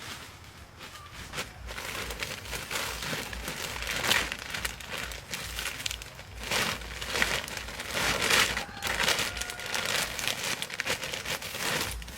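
Crinkling and rustling of material being handled, in irregular bursts that come and go.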